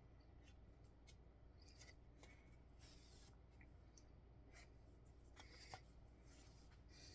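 Faint swishes and small clicks of a needle and thread being drawn through cross-stitch fabric, coming irregularly every second or so, over a low steady hum.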